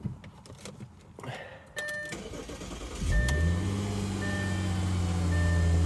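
2007 Audi A4 Avant cold start: a few clicks, then a dashboard warning chime that pings about once a second. About three seconds in, the engine cranks briefly, catches and settles into a steady idle under the continuing chimes.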